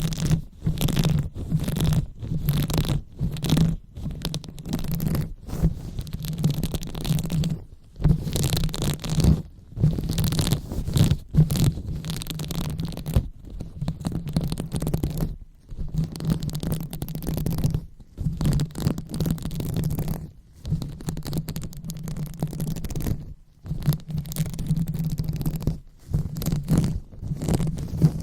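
Hands rubbing and stroking directly on the microphone, the ASMR 'brain massage' sound: irregular rustling strokes with short pauses between them.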